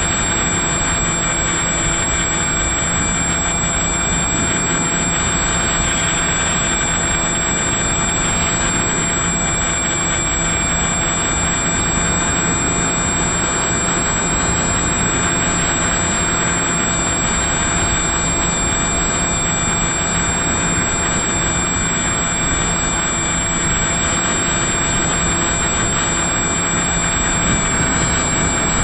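FPV model aircraft's motor and propeller running steadily in flight, heard from the onboard camera as a held whine over a dense rush of wind noise. The pitch dips slightly near the end.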